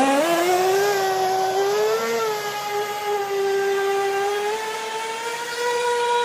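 Brushless electric motor of a Feilun FT011 RC speedboat running at speed on the water: a high whine that climbs sharply in pitch in the first second as the throttle opens, then holds steady with small swells, rising a little again near the end.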